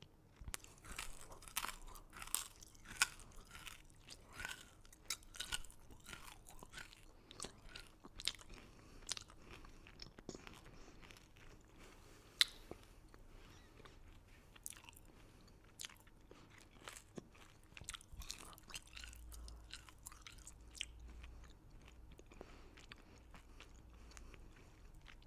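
Close-miked crunchy chewing of hard candy and cookies: many sharp crackles, dense at first and thinning out over the second half.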